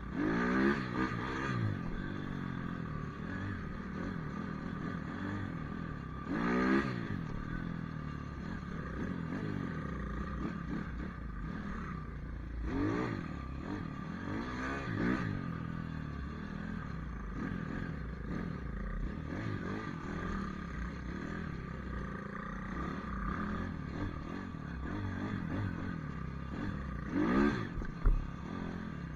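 Pit bike engine revving up and falling back over and over as the bike is ridden, with several sharp rev-ups between stretches of steadier running.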